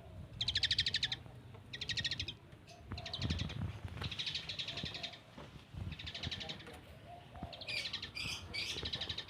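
Pet red-breasted parakeet (betet) giving repeated harsh, rapid chattering calls, about six bursts of fast pulses, each half a second to a second and a half long.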